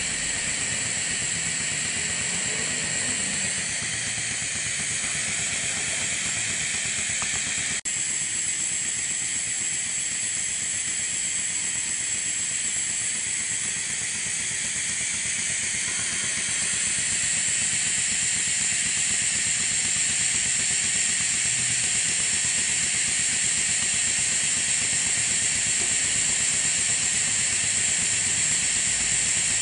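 Maxwell Hemmens model colliery steam engine running on compressed air with oil-mist lubrication: a steady, fast hiss of exhaust air that grows louder a little past halfway through.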